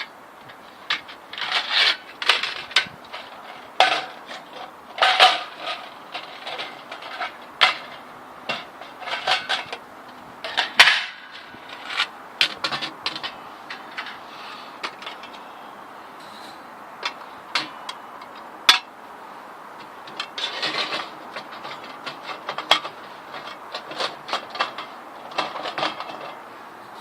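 Irregular clanks, clinks and clatters of metal items being handled and set down, with light scraping between them.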